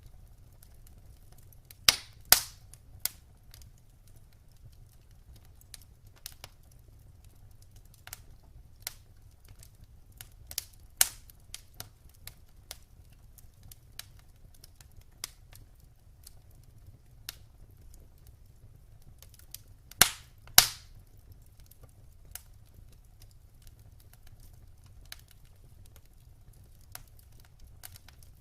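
Wood fire burning in a fireplace, crackling with irregular sharp pops and snaps over a faint steady low rumble. The loudest pops come about two seconds in and as a close pair about twenty seconds in.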